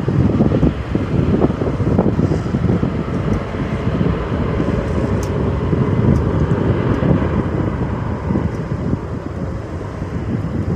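Strong wind buffeting the microphone, a loud, gusty low rumble over a steadier rushing noise.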